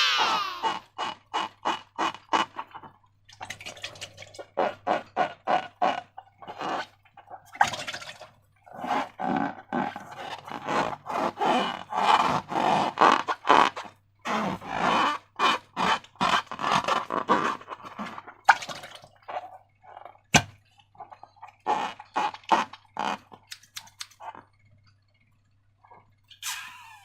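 Slime being squished and worked by hand: a rapid, irregular run of wet clicks and squelches, several a second, pausing briefly now and then. A single sharp snap about twenty seconds in.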